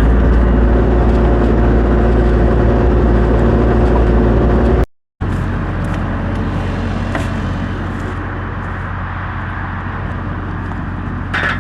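Vehicle engine running steadily while fencing wire is pulled tight. It breaks off briefly about five seconds in and then goes on quieter.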